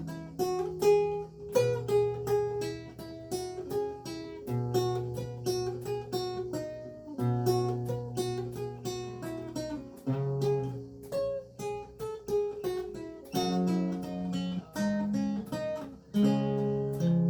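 Renaissance lute with gut strings played solo: a plucked melody running over sustained bass notes, with a short break near the end before a new chord is struck.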